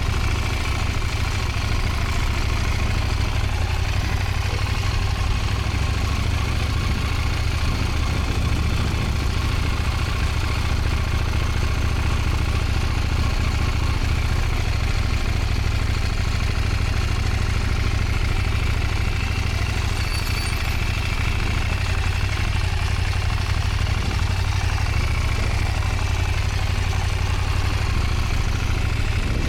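Motorcycle engine running steadily at low revs, with a constant heavy low rumble.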